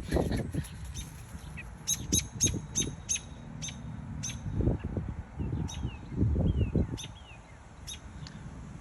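Parent songbirds giving sharp, repeated alarm chips, clustered at first and then spaced out, with short falling whistle notes between: the scolding of adults at a person close to their fledgling. Low thumps and rustles from handling near the microphone come with them.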